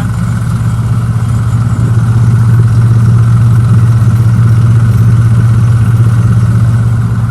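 Diesel engine of a Tymco 435 air sweeper on an Isuzu NQR chassis running at a steady idle, a low, even hum that grows a little louder about two seconds in.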